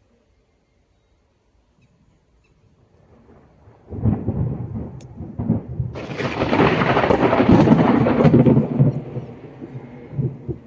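Thunder after a lightning strike: a sudden low rumble about four seconds in, swelling into a louder crackling roll that peaks a few seconds later and then fades.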